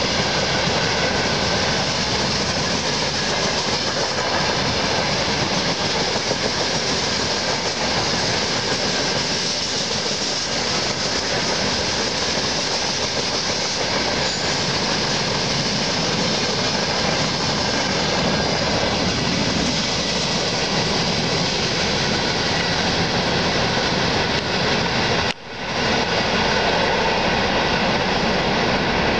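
A freight train's open gondola wagons rolling past, a steady rumble and rattle of steel wheels on the rails. There is a brief break in the sound about 25 seconds in.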